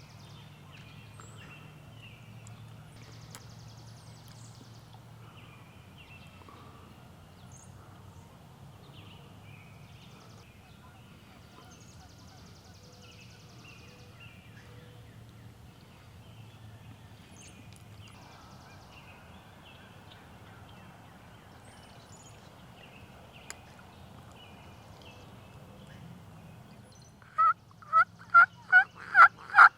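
Faint scattered songbird chirps over a low steady background, then near the end a loud run of wild turkey yelps, about three or four a second.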